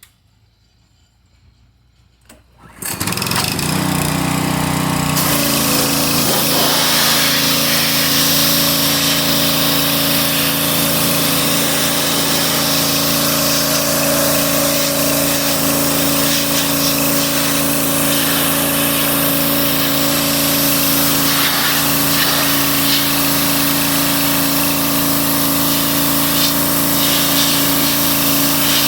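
A small gasoline engine starts about three seconds in and runs steadily and loudly at a constant speed.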